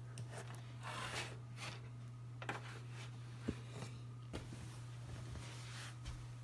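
Scattered rustles and a few light knocks from handling, over a steady low hum.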